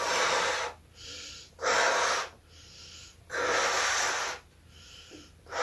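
A person blowing up a balloon by mouth: three long, loud breaths blown into it, each followed by a shorter, quieter breath in.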